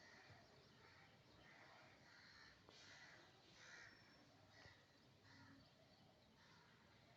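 Near silence, with faint harsh bird calls repeating about once a second in the background.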